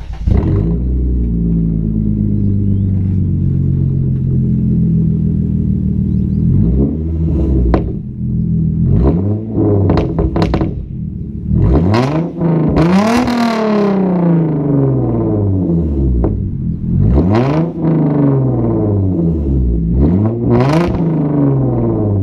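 Straight-piped 3.8 V6 Hyundai Genesis Coupe exhaust, with the muffler and secondary cats deleted and the stock resonator kept. It idles for several seconds, then the engine is blipped about six times while standing still, the longest and highest rev a little past halfway. The owner calls the tone raspy and tinny, lacking its former deep note.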